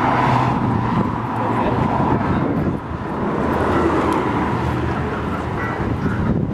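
A car engine running steadily, with people talking in the background.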